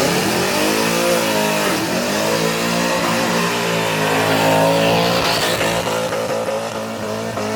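Car engines revving as cars pull out: an engine's pitch rises and falls several times over the steady low drone of another engine.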